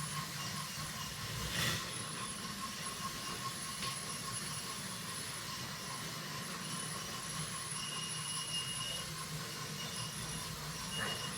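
Several battery-powered toy trains running together on wooden track: a steady whir of their small electric motors with wheels rolling on the track, and an occasional sharp click, the first about one and a half seconds in.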